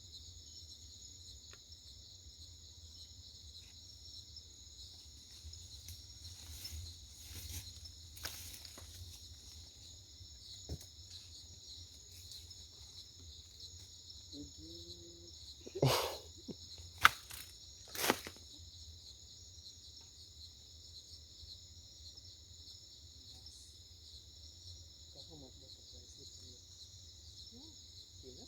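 Steady high-pitched chorus of insects chirring in forest. Three sharp knocks or bumps come close together about halfway through, louder than the chorus.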